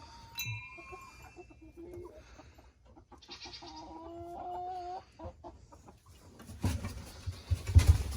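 Chickens clucking and giving drawn-out calls. A wind chime rings briefly about half a second in, and a loud low rumbling noise near the end is the loudest thing.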